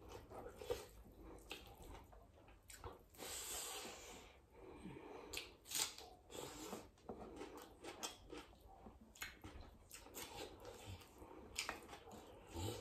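Close-miked eating sounds: a person chewing rice and chicken curry with wet, irregular smacks and clicks, along with the soft squish of fingers mixing rice on a plate.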